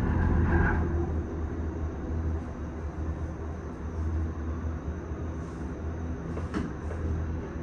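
Disney Skyliner gondola cabin in motion along its cable: a steady low hum and rumble heard from inside the cabin.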